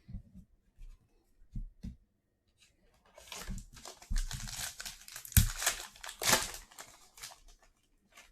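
Sealed trading-card pack being torn open: a few soft knocks of cards handled on a table, then the pack wrapper tearing and crinkling for about four seconds.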